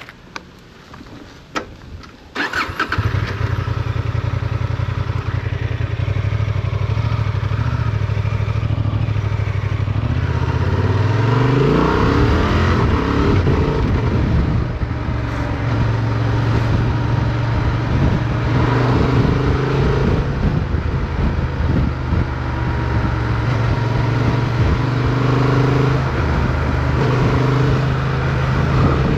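Motorcycle engine starting about two and a half seconds in, after a couple of sharp clicks, then idling steadily. About ten seconds in the engine note rises as the bike accelerates away, and it runs on under way.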